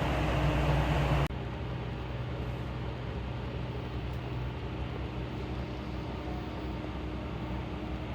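Train interior noise: a loud, steady running rumble that cuts off abruptly about a second in, leaving a quieter steady hum with a low drone.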